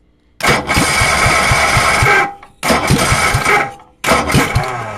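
Unmuffled 10-horsepower Tecumseh engine turned over three times in a row, firing and sputtering loudly but not catching; the owner thinks its valves are stuck open.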